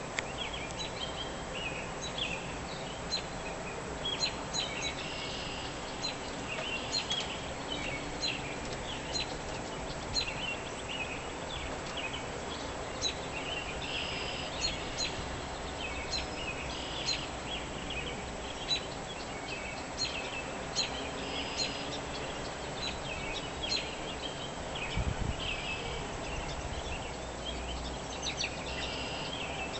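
Many small birds chirping and calling at once, short high chirps overlapping continuously over a steady background hiss.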